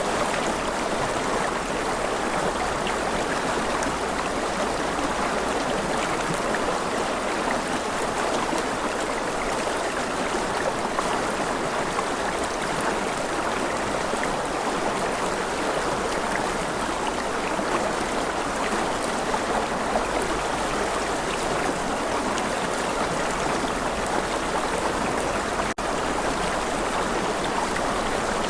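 Steady rushing of a flowing stream, an even wash of water sound, with a momentary dropout near the end.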